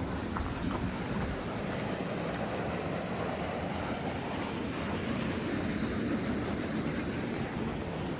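Steady rushing noise, an even low roar with no clear rhythm or pitch.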